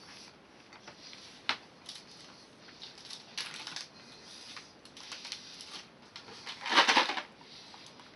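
Close-up eating noises while tasting a piece of Hershey's chocolate: scattered small clicks and chewing sounds, with a louder noisy burst about seven seconds in.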